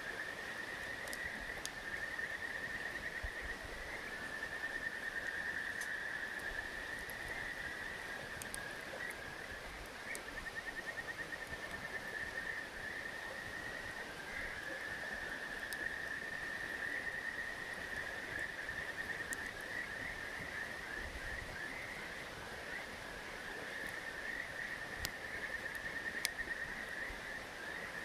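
A chorus of frogs trilling, a dense, continuous high-pitched trill that swells and eases over the whole stretch, with a few faint sharp ticks scattered through it.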